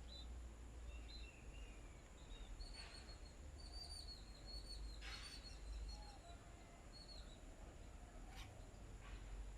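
Small birds chirping faintly: scattered short, high chirps and little trills, several in a row about four to six seconds in, with a few soft taps among them.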